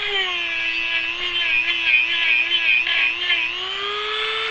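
Small electric power tool spinning a wire wheel against a steel hydraulic ram part to scour out crud. The motor whine wavers slightly in pitch as the wheel bears on the metal, with a brushing hiss above it, and rises near the end as the load comes off.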